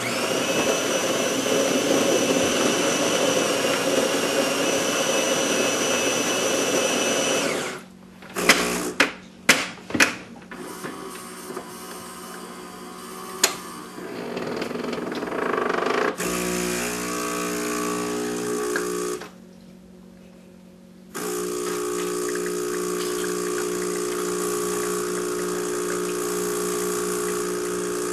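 Saeco Royal Professional super-automatic espresso machine going through a brew cycle. The grinder runs for about eight seconds, then the brew unit clunks and knocks several times. The vibration pump buzzes for about three seconds, stops briefly, and starts again for the rest.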